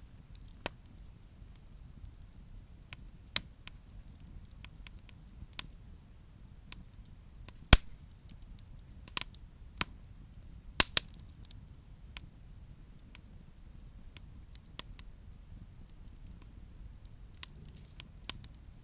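Wood campfire crackling: irregular sharp pops and snaps of varying strength over a faint low rumble. The two loudest pops come about eight and eleven seconds in.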